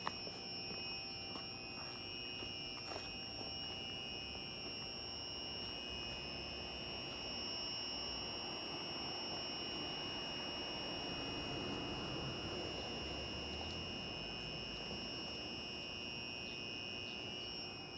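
JR East EV-E301 series ACCUM battery train moving along the platform, its low running rumble swelling midway and easing off, under a steady high-pitched electronic tone that holds throughout.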